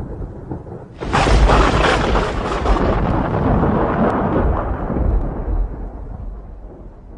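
Thunder: the tail of a rumble fades, then a sharp crack of close thunder breaks about a second in and rolls on as a long, low rumble that slowly dies away.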